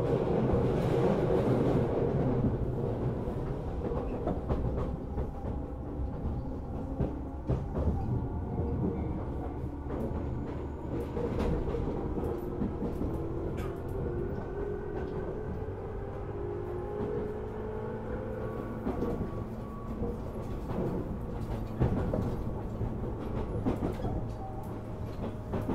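Onboard running sound of a Tobu 10000-series electric commuter train: a steady rumble under a motor whine that rises in pitch as the train gathers speed, with scattered clicks of the wheels over rail joints.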